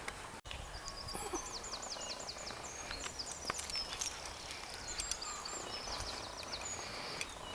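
Songbird singing: a quick run of about eight repeated high, slurred notes, then more high chirps a few seconds later, over faint outdoor background noise with a few light clicks.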